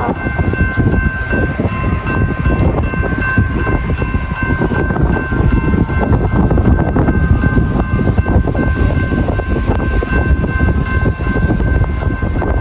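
A train passing close by: a loud, steady rumble with rapid clattering from the wheels, and several faint steady whining tones held over it throughout.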